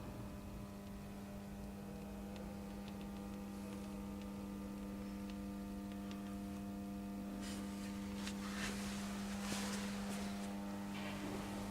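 Ungerer RM 3000 CNC machine humming steadily with a stack of overtones. From about seven and a half seconds in, a rushing hiss with scattered clicks and rattles comes and goes over the hum.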